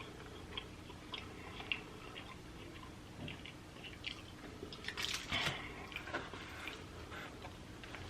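A person chewing food close to the microphone: soft, irregular wet mouth clicks, a little louder for a moment about five seconds in.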